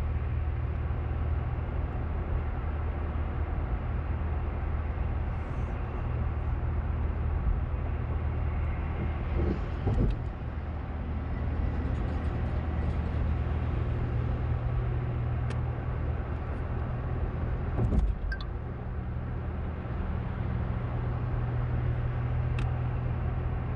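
Steady engine and road noise of a moving car heard from inside the cabin, a constant low hum with two brief thumps about ten and eighteen seconds in.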